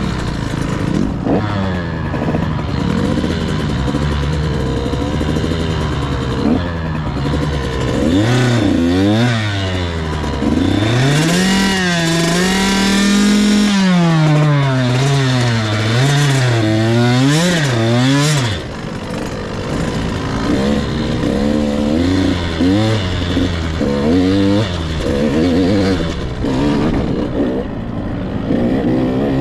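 Husqvarna TC 85 two-stroke dirt bike engine revving up and down repeatedly while being ridden. It holds high revs for a couple of seconds past the middle, drops suddenly about two-thirds of the way through as the throttle is let off, then picks up and revs up and down again at lower revs.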